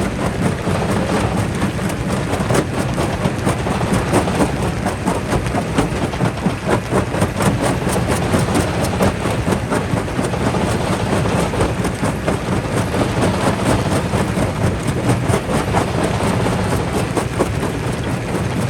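Quarry jaw crusher crushing rock: a steady heavy rumble packed with rapid cracking and knocking of stone.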